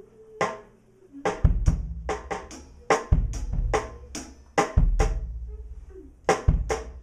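A drum kit playing a slow, heavy beat: deep bass drum hits about every second and a half, with sharp snare and cymbal strikes between them.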